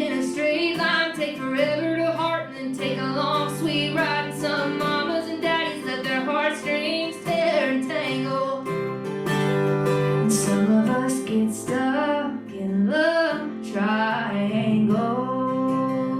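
A woman singing a country song live, accompanied by strummed acoustic guitar.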